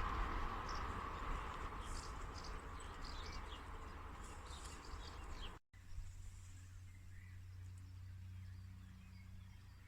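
Small birds chirping over a broad outdoor noise that fades away. About halfway through the sound cuts off abruptly and comes back quieter, with a steady low hum and a few faint chirps.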